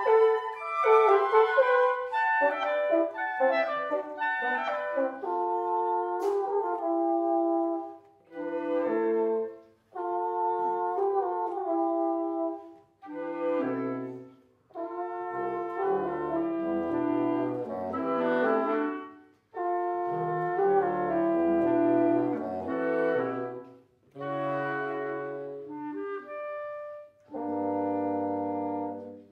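Wind quintet of flute, oboe, clarinet, bassoon and French horn playing live: phrases of held chords broken by brief pauses.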